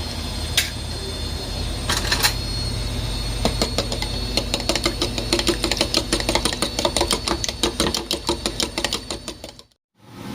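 A few sharp knocks, then eggs being beaten in a bowl with a utensil: fast, light, regular clicking of the utensil against the bowl for several seconds, fading and stopping suddenly near the end.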